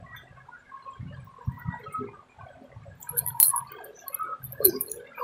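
Close-up chewing and mouth sounds of people eating fried snacks such as aloo chop, heard as irregular low muffled bumps. A sharp click comes about three and a half seconds in.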